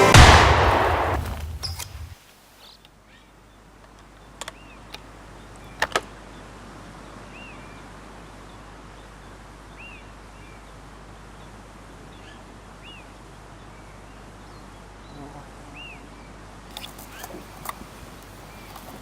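A swell of music fades out in the first two seconds, leaving quiet outdoor ambience. A bird gives a short chirp about every three seconds, and a few sharp clicks sound about four and six seconds in and again near the end.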